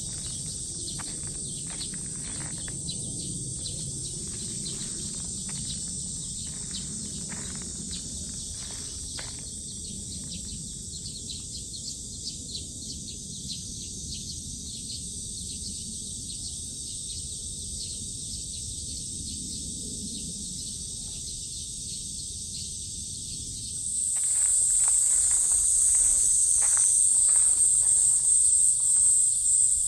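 Cicadas buzzing in summer trees, a steady high-pitched drone that swells sharply louder about four-fifths of the way in as a nearer cicada starts up, over a low outdoor rumble and scattered faint clicks.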